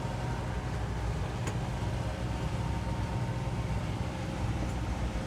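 The towboat's twin 200 hp Suzuki outboard motors running steadily under tow load, a low even drone with a wash of wind and water noise over it.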